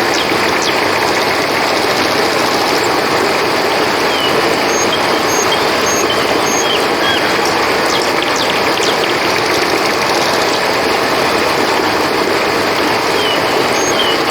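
Steady rush of flowing river water, with crickets chirping in short high pulses over it at times.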